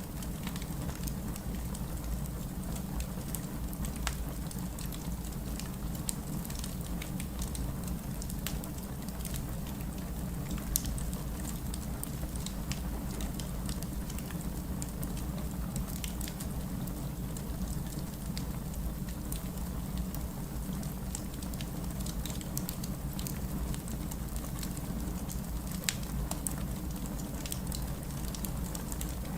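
Fireplace crackling, with scattered sharp pops, over a steady bed of rain and a low rumble.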